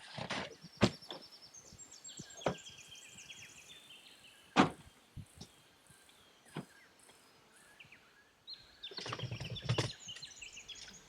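Bird calls, high warbling trills twice, over a series of sharp knocks, the loudest about four and a half seconds in, with a short low rumble near the end.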